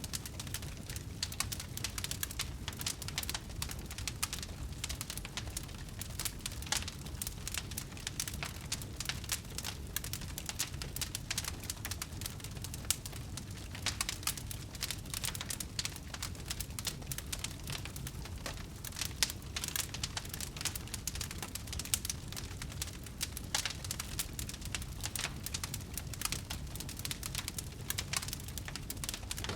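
Wood fire crackling in a fireplace: many irregular small pops and snaps over a steady low rumble.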